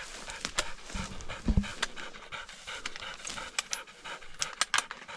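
A pig-hunting dog panting hard in quick, even breaths. Sharp clicks are scattered through it, with a low thud about a second and a half in.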